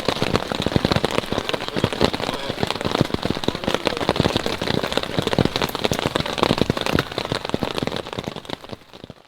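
Rain pattering steadily on a tent, a dense stream of many small drop strikes, fading away near the end.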